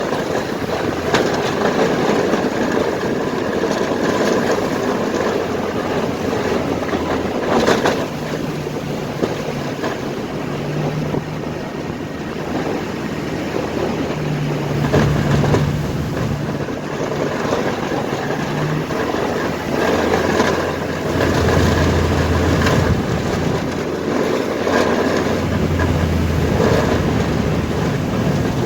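Truck driving: a steady engine drone that changes pitch several times, over road and wind noise with occasional knocks and rattles.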